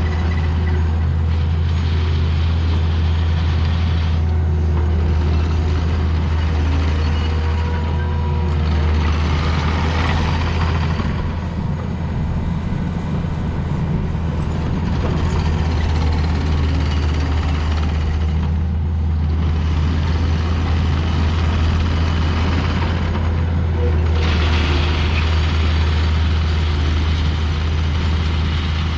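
Heavy diesel engine running steadily with a strong low hum, easing off briefly a couple of times.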